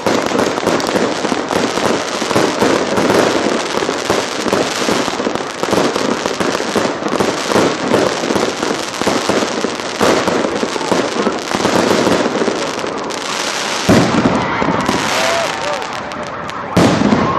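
Fireworks display: a dense, continuous crackle of many rapid pops, with two louder, deeper bangs near the end.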